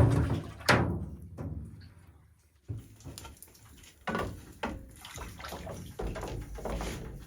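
A sharp knock, then liquid splashing and sloshing in a container in short irregular spurts.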